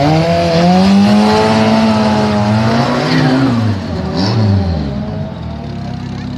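Old Volkswagen Golf rally car's engine revving hard as it pulls away from the start. The pitch climbs for about three seconds, then falls away as the car leaves.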